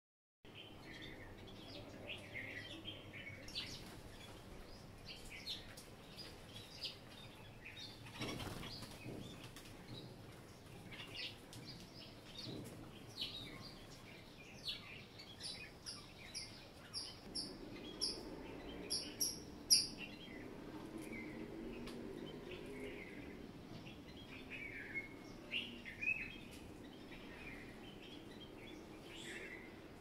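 Small birds chirping and calling on and off, with a run of about ten sharp, high repeated notes, about two a second and growing louder, from around 15 to 20 seconds in.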